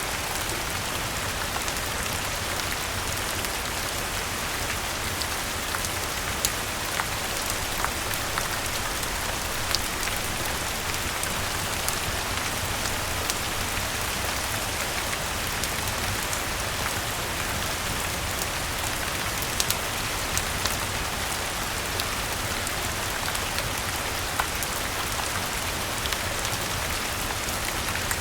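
Steady rain falling, an even hiss with scattered sharp ticks and pops a second or so apart.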